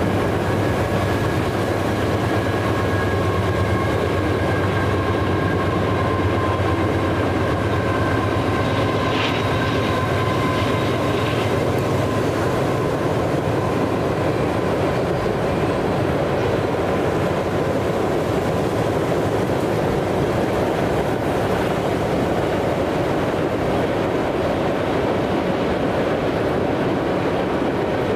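A train rolling past steadily, its wheels running on the rails. A faint high whine fades out about twelve seconds in, and there is one short clank about nine seconds in.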